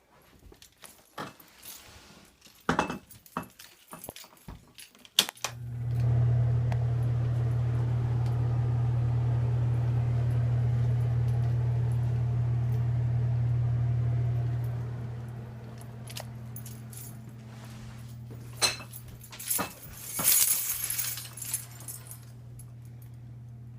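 Clicks and light clinks of handling, then a steady low electric motor hum, like an appliance or fan, switches on abruptly about five seconds in. The hum drops to a lower steady level about two-thirds of the way through, and more clicks and a jangle come near the end.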